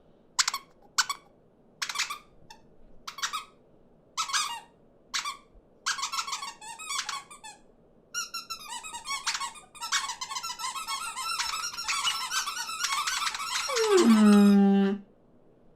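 Cartoon small birds squeaking and chirping, first in single short chirps about twice a second, then crowding into a dense, overlapping twittering squabble. Near the end a loud call slides down in pitch and holds low for about a second before cutting off.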